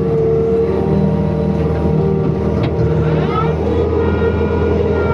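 Excavator's diesel engine running steadily, with a brief rising whine about three seconds in.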